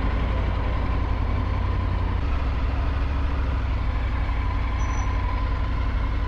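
Triumph Tiger 900 GT motorcycle's three-cylinder engine running steadily with an even, deep rumble.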